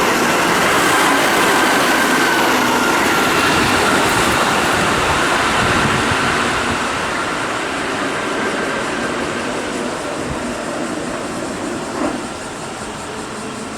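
Keihan 2200 series electric train running through at speed, with a steady rush of wheel and motor noise that slowly fades as it draws away. A single sharp knock comes about twelve seconds in.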